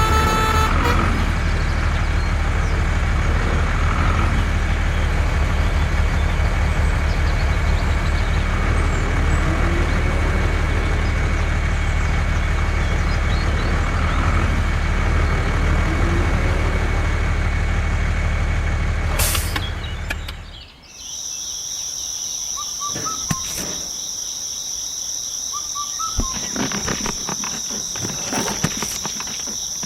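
Truck engine running steadily, with a short hiss like an air brake near the end. About two-thirds through it cuts out and crickets chirp steadily, with a few clicks.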